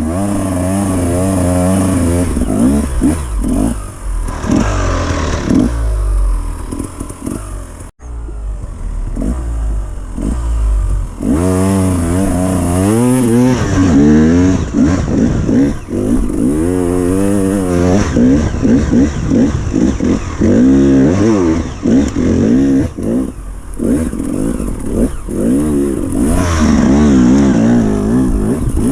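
Dirt bike engine revving hard in repeated throttle bursts, its pitch rising and falling over and over, with some clatter. The sound breaks off abruptly about eight seconds in, then the revving resumes.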